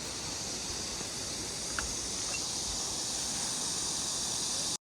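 Steady high drone of summer insects over a low, rushing haze of stream water, growing slightly louder and then cutting off abruptly near the end.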